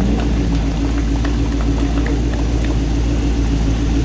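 A car engine running steadily at idle.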